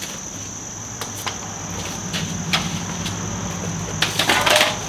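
Scattered clicks and knocks of metal, then a louder rattling clatter near the end, as the truck is worked onto wheel dollies. Under it runs a steady high-pitched insect chirring, with a low hum through the middle.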